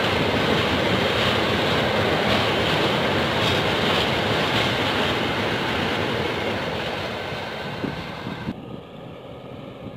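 A diesel-hauled train running past on the line, a loud rushing rumble of wheels on rail that fades away over the last few seconds as it recedes, with a few faint knocks near the end.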